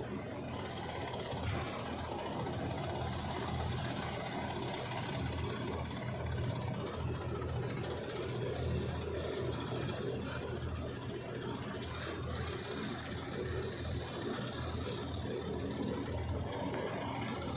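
Diesel engine of a Hyundai HX 220 HD excavator running steadily.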